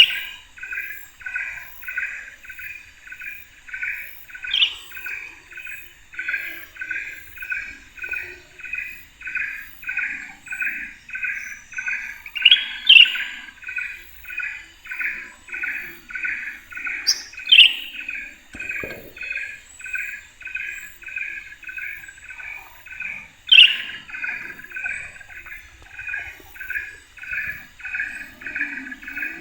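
Birds calling: a fast, very regular series of short chirps, two or three a second, with a louder, sharper call every few seconds over the top.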